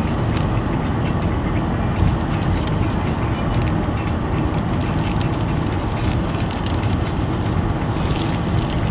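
Steady low rumble of a car heard from inside the cabin, with a few brief rustles on top.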